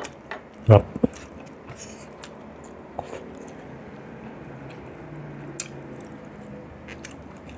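Close-miked eating sounds: wet chewing and lip smacks, with a short loud mouth sound near the start and a few sharp clicks scattered through.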